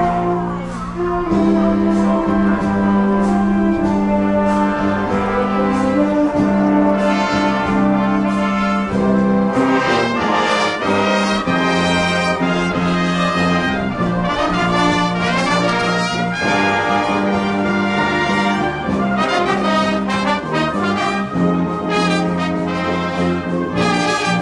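High school marching band playing live: trumpets and trombones hold loud brass chords over a driving drum beat.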